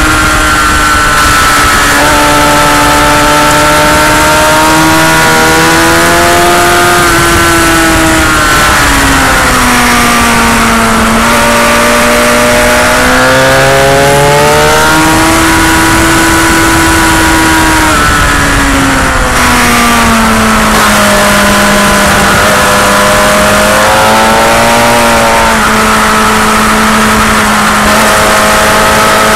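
Motorcycle engine under hard riding on a race track, its pitch rising and falling several times as the rider accelerates, shifts and slows for corners, with heavy wind rush over the microphone.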